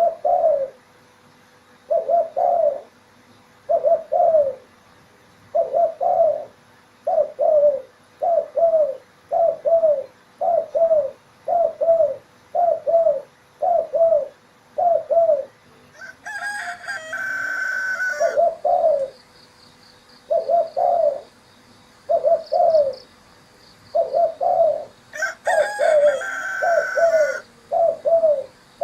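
Spotted dove (tekukur) cooing over and over, a short two-part coo about every second. A rooster crows twice, each crow lasting a couple of seconds, once about halfway through and again near the end.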